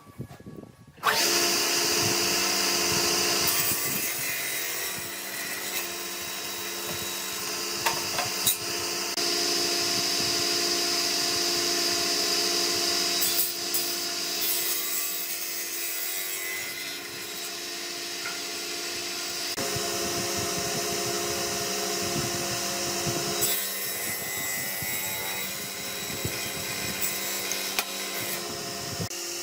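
Electric power tool working wood. It starts suddenly about a second in and runs continuously, a motor hum with a steady whine over a grinding hiss, its level rising and falling as the tool bites.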